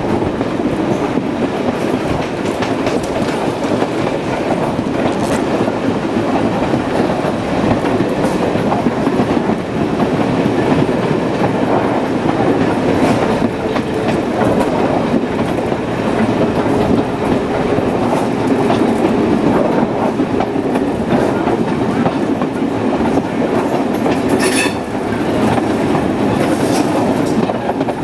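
Railway carriage running along the track, heard from its side: a steady loud rumble of wheels on rail with scattered clicks, and one brief sharp clatter about three-quarters of the way through.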